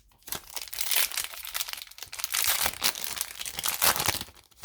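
Foil trading-card pack wrapper being torn open and crinkled in the hands, a continuous crackle that stops near the end.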